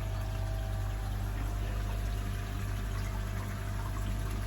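Water pouring and trickling steadily through a bakki shower filter, over the steady low hum of the pond pump.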